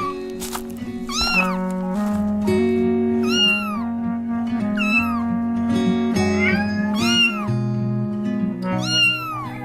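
A cat meowing about five times, roughly every two seconds, each meow rising then falling in pitch, over background music with held notes.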